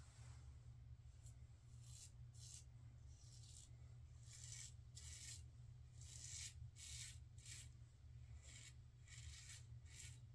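Faint, repeated short strokes of a razor scraping lather and stubble off the face, about a dozen irregular strokes.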